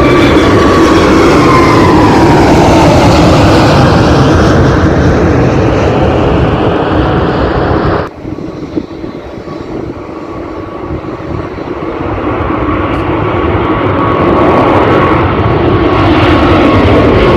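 Jet airliner engines at takeoff power, loud, with their whine falling in pitch as the aircraft passes. About eight seconds in the sound cuts off abruptly and drops much quieter, then jet engine noise builds back up, with a steady whine.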